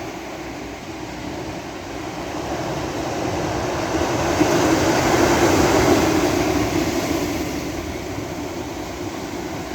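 Sea waves breaking on a beach: a rush of surf that swells to a peak about five seconds in and then slowly falls away.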